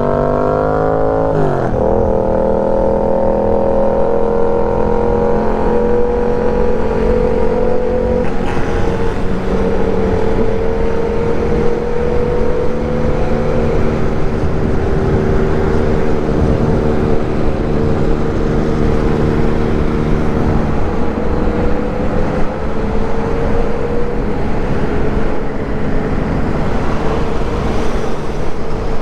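Motorcycle engine under way. The revs rise, then drop at a gear change about a second and a half in, and the engine then runs at a fairly steady cruising speed. Wind buffets the microphone throughout.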